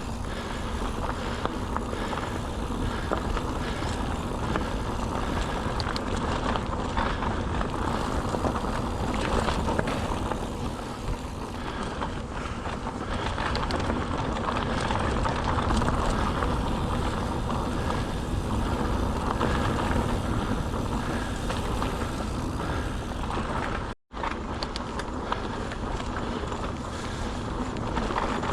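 Mountain bike ridden over a woodland dirt trail: steady tyre rumble with rattles and small knocks from the bike. The sound cuts out for an instant about four seconds before the end.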